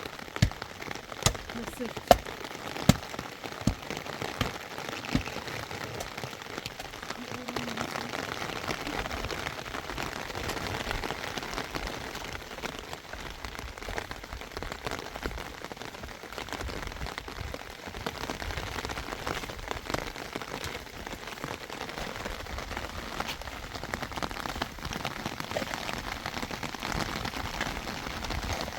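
Steady rain falling, a continuous even hiss. In the first few seconds, several sharp knocks or drips stand out, about one a second.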